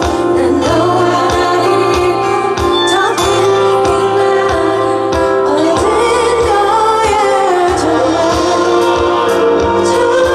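Female pop singer singing live with a full band behind her, her voice carrying a wavering, held melody over a steady drum beat.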